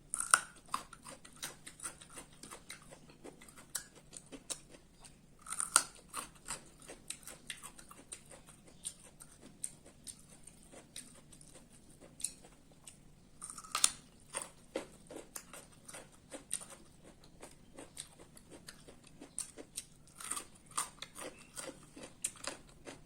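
A person chewing food close to the microphone: wet, clicking mouth sounds throughout, with four louder sharp bites spread several seconds apart.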